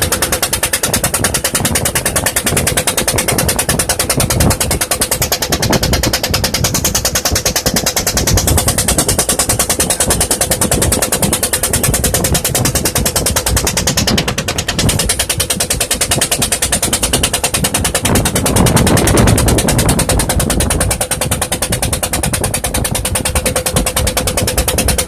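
A small engine running steadily with a fast, even knocking rattle that does not let up.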